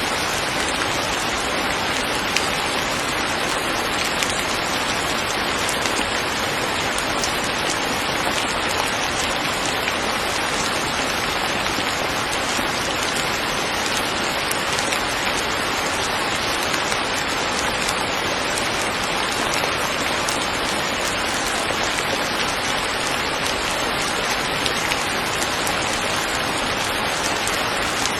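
Steady heavy rain falling and pattering on surfaces, an even dense hiss with scattered drop ticks.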